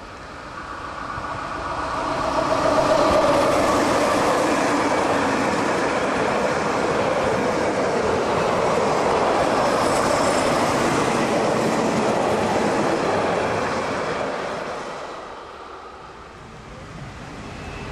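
Berner Oberland Railway narrow-gauge electric train approaching and running close past, its motor coach and carriages rolling over the track. The sound builds over the first three seconds, with a whine falling in pitch as the train comes level, holds loud while the coaches pass, and fades about three seconds before the end as the train draws away.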